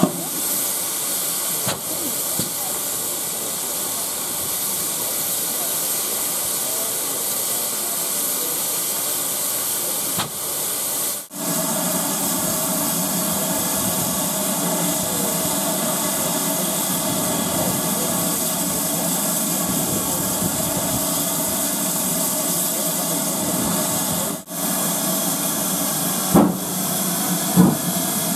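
Steam locomotive letting off steam: a steady, loud hiss that breaks off briefly twice, with a few short knocks near the end.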